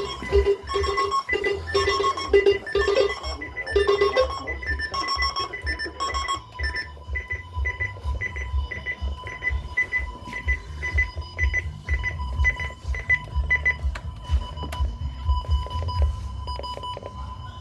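Weather radio sounding a steady alert tone, close to the 1050 Hz NOAA Weather Radio alarm tone. Electronic beeping repeats over it, about two beeps a second, and stops a little past halfway. Gusty wind rumbles on the microphone underneath.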